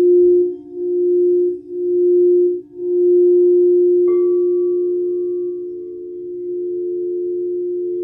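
Singing bowl sounding a steady low tone that swells and fades about once a second, as when a mallet is run around its rim. About four seconds in it is struck, adding higher ringing tones that hang on over the hum.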